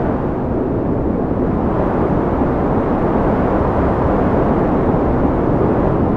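Strong wind blowing steadily, a low, dense rush of noise that grows a little louder over the first couple of seconds.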